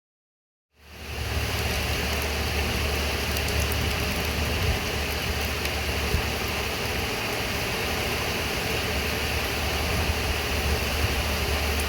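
Steady rain noise with a constant low rumble underneath, fading in from silence about a second in.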